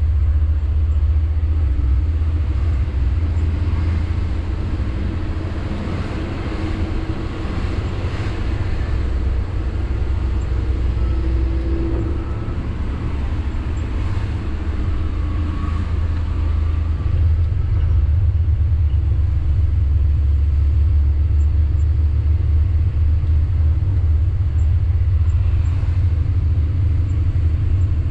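Sany 6x4 dump truck on the road: a steady low engine and road rumble, easing a little for several seconds near the middle.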